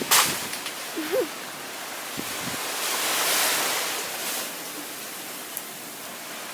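Ocean surf washing on a beach, one wave swelling and fading about halfway through, with a sharp knock right at the start.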